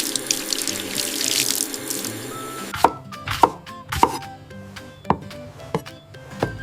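Water rushing, like a running tap, over light background music for about the first three seconds, then a series of sharp knocks or clicks, about one a second.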